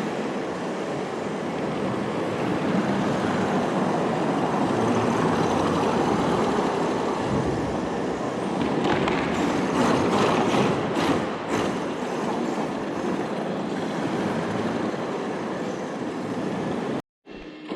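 HSP 94123 RC drift car driving, its hard drift tyres rolling and sliding on the surface: a steady rough rolling noise with sharper scrubbing bursts about 9 to 11 seconds in. The sound cuts out abruptly for a moment near the end.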